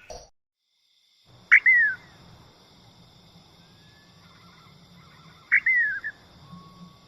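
A bird gives two loud calls about four seconds apart, each a sharp note that slurs downward in pitch, with a faint steady high whine behind them.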